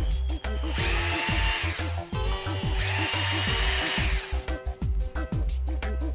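Cordless drill motor run twice in bursts of about one and a half seconds each, with a steady whine. Background music with a steady beat plays under it.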